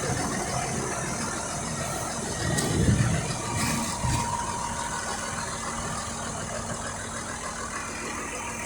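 Large tractor engine running steadily at idle, with a brief louder low swell about three seconds in.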